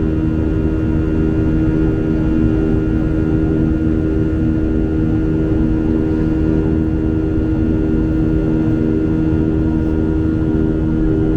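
Steady engine drone inside the cabin of a Boeing 737-800, its CFM56 turbofans giving a constant hum with a few held tones over a low rushing noise.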